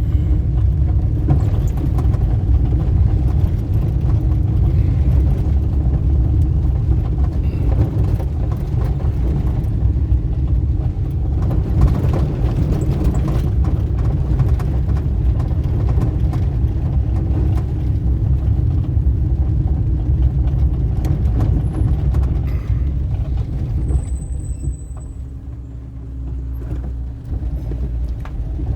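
Steady rumble of engine and tyres from a road vehicle being driven. About 24 s in it grows quieter, with a steady low hum, as the vehicle slows, then picks up again near the end.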